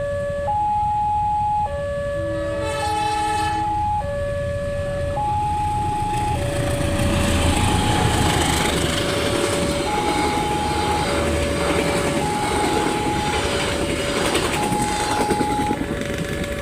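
Level-crossing warning alarm alternating between a high and a low tone, a little over once a second. About three seconds in a train horn sounds briefly, then a train passes at speed with a loud rumble and wheel noise under the alarm.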